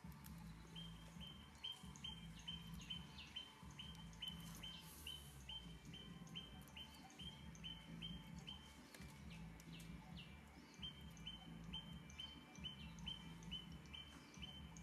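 A bird calling one short high note over and over, about twice a second, pausing for a second or so past the middle and then going on, over a faint low rumble.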